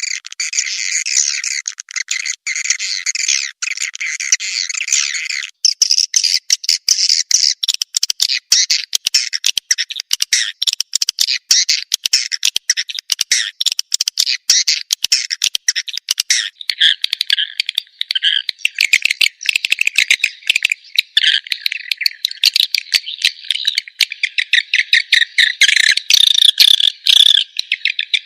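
Recorded swiftlet calls used as a lure sound: dense, rapid chirping twitters and buzzy trills with nothing low in pitch. The call pattern changes abruptly about five seconds in and again about halfway through.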